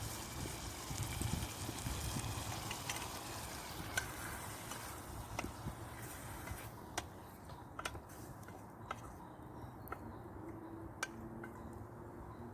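Wood campfire crackling, with sharp isolated pops roughly once a second and a low rumble in the first couple of seconds.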